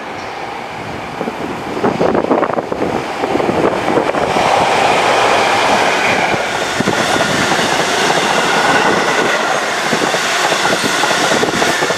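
A train passing close by, its wheels clattering on the rails. The sound builds over the first few seconds and stays loud from about four seconds in.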